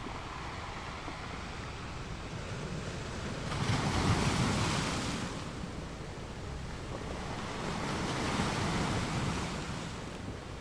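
Ocean waves washing onto a beach. A wave breaks about three and a half seconds in, the loudest moment. A softer one swells and fades a few seconds later.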